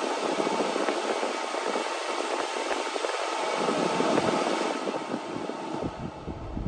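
Steady, even running noise from a Honda Acty mini truck, easing off a little near the end.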